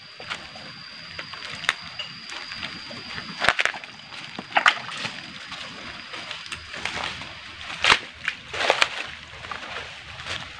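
Footsteps sloshing and splashing through a shallow rocky forest stream, heard as several separate splashes a second or so apart, with a faint steady high tone that stops about two-thirds of the way through.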